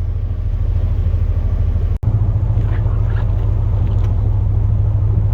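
Chevrolet Silverado plow truck's engine running with a steady low drone, heard from inside the cab, with a brief cut-out about two seconds in before the drone carries on.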